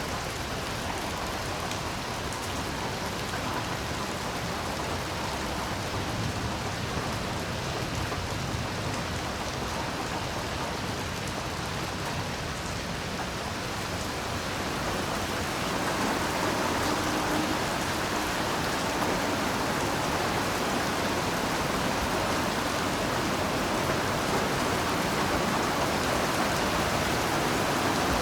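Heavy rain falling steadily, a dense, even hiss of drops on the surfaces around. It swells louder about halfway through and stays at that level.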